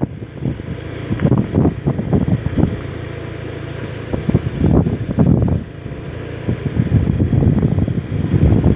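Wind buffeting the microphone in irregular low gusts, over the steady low hum of a vehicle engine.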